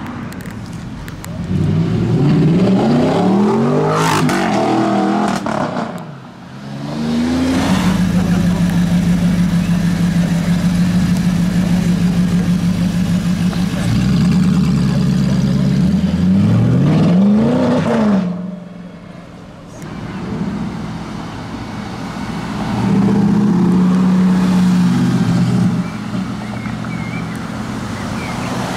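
Tuned Audi R8's 4.2-litre V8 with a modified exhaust, revved loudly over and over: quick blips that rise and fall in pitch, between long stretches held at steady revs. The level dips briefly about two-thirds of the way through.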